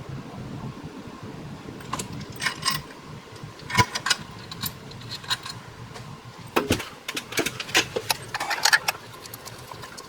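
Metal bolts and parts clinking and tapping as they are handled during a water pump install. A string of sharp clinks starts about two seconds in and comes thicker in the second half.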